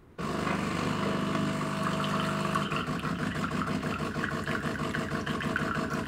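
DeLonghi ECAM bean-to-cup coffee machine running its rinse cycle after start-up: it cuts in abruptly with a steady motor hum, which gives way about two and a half seconds in to a fast, even pulsing as the pump pushes water through the freshly cleaned brew unit.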